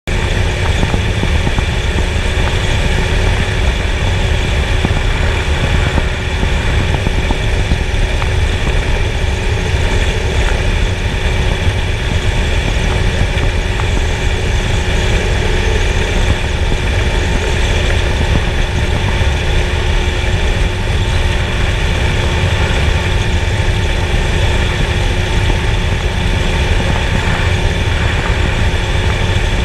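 An engine running steadily at a constant speed: a loud, unchanging low rumble with several steady tones above it.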